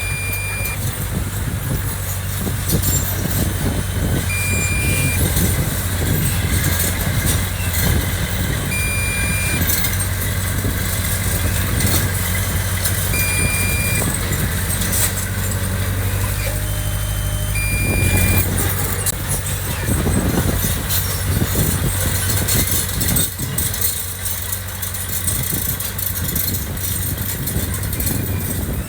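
Diesel engine of heavy earthmoving machinery running steadily with metallic clatter. A short high beep sounds about every four and a half seconds for the first two-thirds, then stops.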